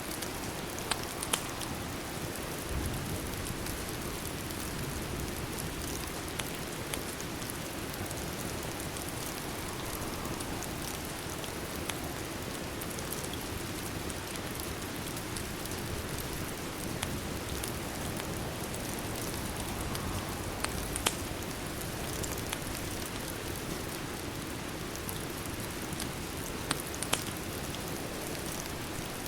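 Steady rain mixed with a crackling fireplace, with a dozen or so sharp pops scattered through.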